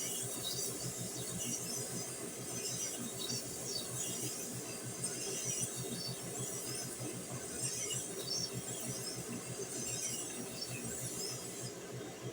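Motorized horizontal waterstone running with a steady motor hum, a steel knife blade rasping against the spinning stone in repeated strokes.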